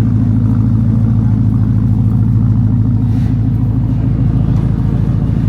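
Shelby Mustang's V8 engine idling steadily, deep and low-pitched, with no revving.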